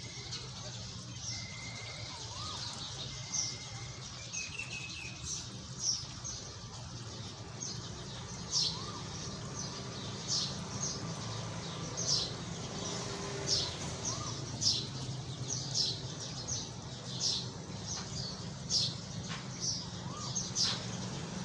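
Small birds chirping in short high calls, about one every second, over a steady low rush of falling water from a small waterfall.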